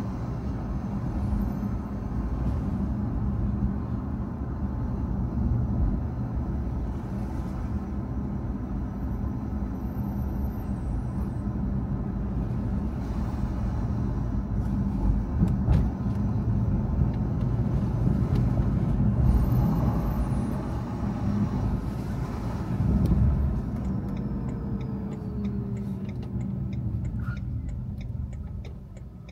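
A car on the move: a steady low rumble of engine and tyre noise. Over the last few seconds a falling tone sounds and the noise eases off as the car slows.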